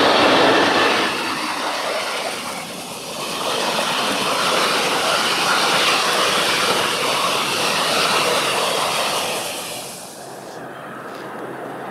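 Freight train passing close by: an SNCF Fret electric locomotive hauling tank wagons. It is loudest for the first second as the locomotive goes past, then the wagons' wheels roll steadily along the rails. The sound drops away about ten seconds in.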